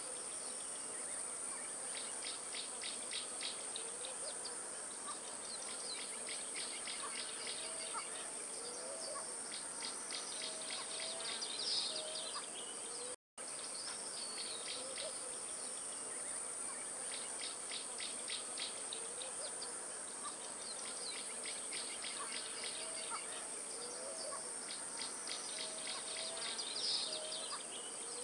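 Nature ambience of steady insect buzzing with bird trills and calls. After a short drop to silence about halfway through, the same passage repeats as a loop.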